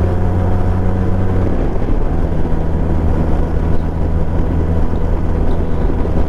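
Benelli TRK 502's parallel-twin engine running steadily while riding, its note shifting slightly about a second and a half in.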